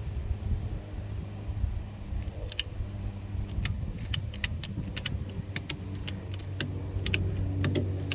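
Sharp, irregular metallic clicks, one to a few a second, from tightening down a motorcycle mount in a pickup bed, starting about two seconds in. A steady low hum runs under them.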